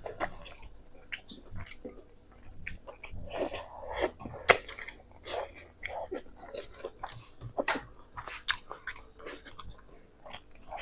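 A person chewing and biting pork close to the microphone, with irregular wet smacks and crunchy clicks, several a second.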